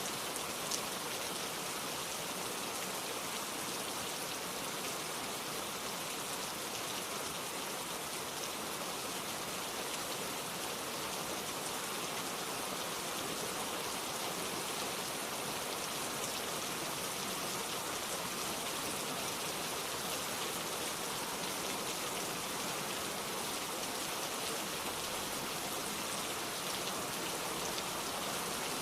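Steady rain falling, a dense even patter of drops on a surface, with a single louder drop tick about a second in.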